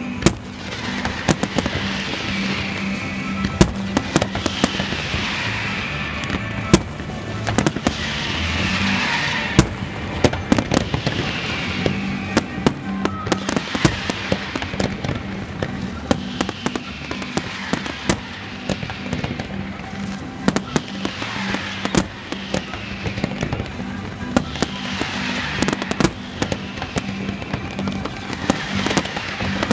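Fireworks display: a dense, continuous barrage of shell bursts, sharp bangs and crackling, with several loud reports spread through and no letup.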